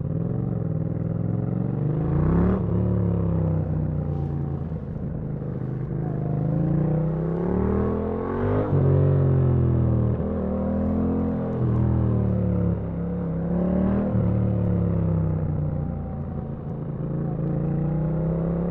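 Yamaha MT-07's parallel-twin engine under riding: the revs climb to about two and a half seconds in and drop sharply at a gear change, climb again to a peak near nine seconds, then ease off and rise and fall gently with the throttle.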